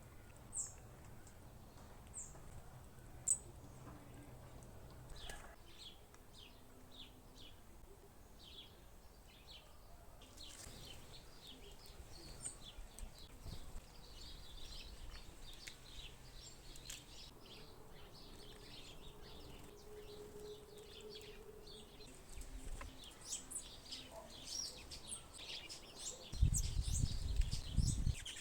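Small birds chirping at a fruit and seed feeder, scattered single chirps at first, then a busy chatter of many short calls from about a third of the way in. Near the end a loud low rumble comes in.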